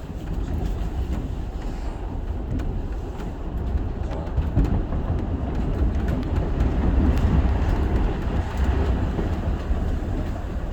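Shonan Monorail 5000 series suspended monorail car running at speed, heard on board: a steady low rumble with a few faint clicks, swelling slightly partway through.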